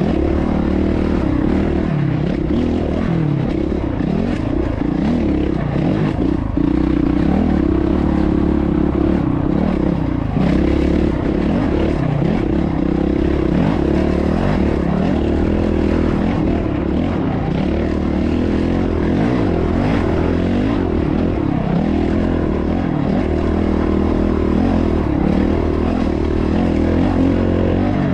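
Honda dirt bike engine running hard, its pitch rising and falling over and over as the throttle is opened and closed through a series of whoops and jumps.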